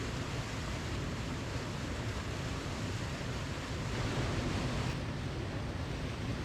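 Waterfall: a steady rush of falling water, swelling slightly about four seconds in.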